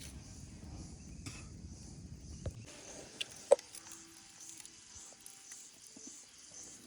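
Insects chirring steadily at a high pitch. A low rushing noise fills the first couple of seconds and cuts off abruptly. A single sharp click comes about three and a half seconds in.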